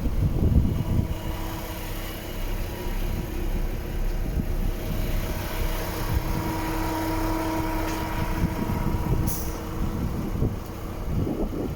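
DAF XF 460 truck's straight-six diesel engine idling steadily, with wind buffeting the microphone. A brief high hiss about nine seconds in.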